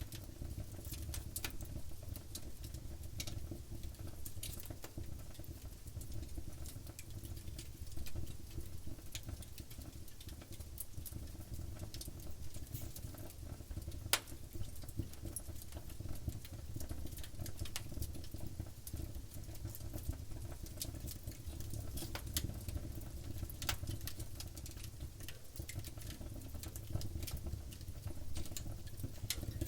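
Wood campfire burning: a steady low rumble of flames with scattered sharp crackles and pops, one louder pop about 14 seconds in.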